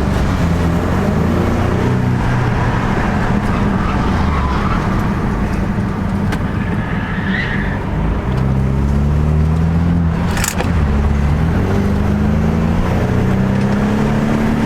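Loud car engine running hard, its pitch climbing and dropping several times as it accelerates and shifts.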